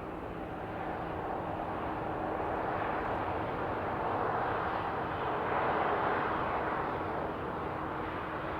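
Jet airliner passing at a distance, a rushing engine noise that grows to its loudest about six seconds in and then fades.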